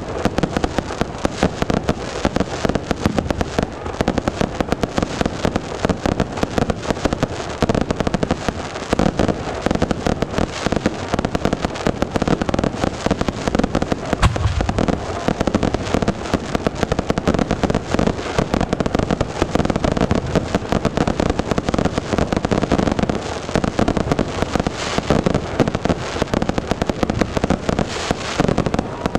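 Aerial fireworks going off in a continuous barrage: a dense, unbroken crackle of rapid pops from launches and bursts, with a deeper boom about halfway through.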